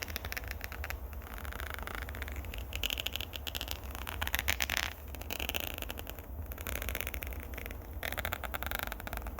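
Scratching on a microphone at close range: rapid crackling clicks with repeated swishing scrape strokes.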